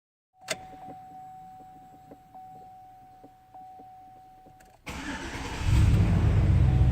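A steady warning tone with light regular ticks for about four seconds, then the 2004 Chevy Silverado's 5.3L V8 cranks briefly, fires and settles into a loud, steady run.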